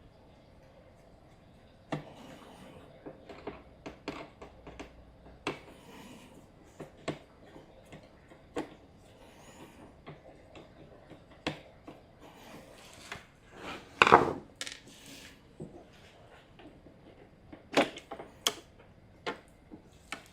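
An LED shop light's housing and lens being handled and worked at to free the lens: irregular clicks, taps and knocks starting about two seconds in, with the loudest clatter about 14 seconds in.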